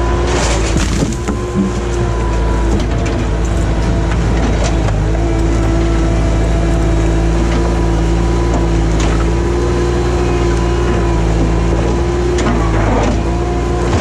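Skid steer engine running steadily, with a few knocks and clanks, the strongest about a second in and near the end.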